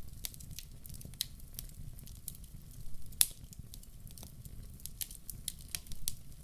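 Wood fire burning in a fireplace: irregular crackles and pops of burning logs over a low steady rumble of the flames, with one sharper pop about three seconds in.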